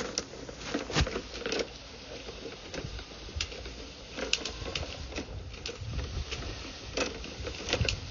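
Irregular sharp clicks and knocks, about a dozen over several seconds, over a faint steady hiss.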